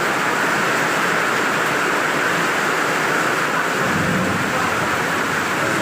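Heavy rain falling steadily, a dense even hiss, with a brief low rumble about four seconds in.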